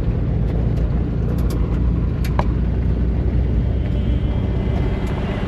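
1958 VW bus's air-cooled flat-four engine running steadily while driving a rough dirt trail, with a few sharp rattles and clicks about one and a half to two and a half seconds in.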